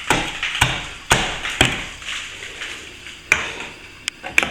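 Metal plastering scraper chipping and raking old plaster out of a crack at a ceiling-to-wall joint: sharp strikes about every half second, a quieter stretch of scraping, then a few more strikes near the end.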